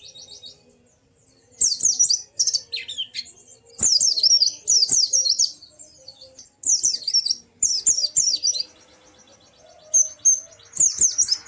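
Pleci (white-eye) singing in bursts of rapid, high twittering phrases, four bursts with short pauses between them.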